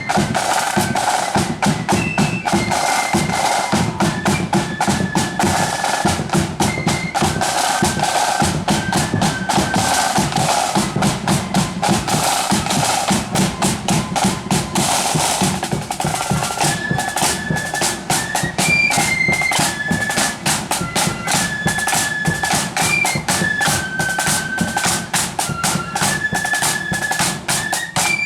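Marching band playing a high, stepping melody over rapid snare drumming and bass drum beats.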